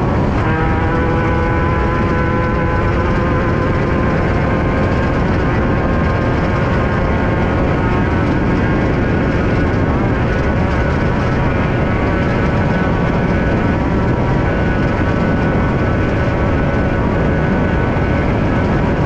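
Engine of a Class 5/1600 off-road race car, an air-cooled 1600cc VW engine, running at high revs under race load, heard from inside the car over a heavy, steady rumble. The pitch holds fairly steady, with small rises and dips.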